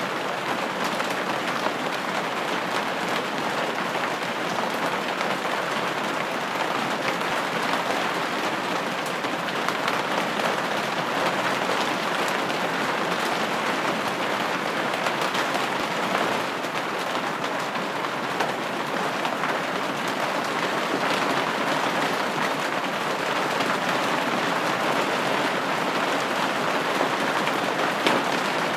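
Steady rain pattering against a window pane, an even hiss with fine drop ticks.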